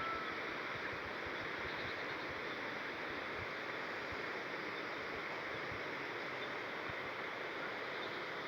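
Flowing stream water, running steadily.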